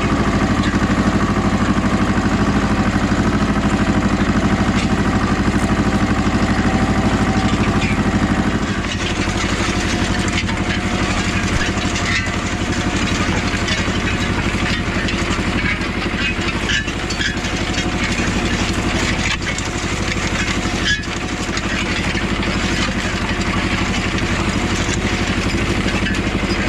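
Goldoni 933 RS DT compact tractor's diesel engine running steadily while pulling a disc harrow, its note changing and dropping slightly about nine seconds in, with light clattering from then on.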